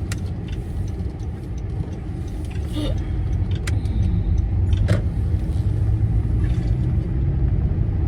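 Car cabin noise while driving: a steady low rumble of engine and tyres that grows louder about halfway through, with a few light clicks.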